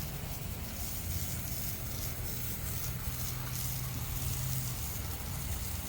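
A low, steady engine hum, as of a motor left idling.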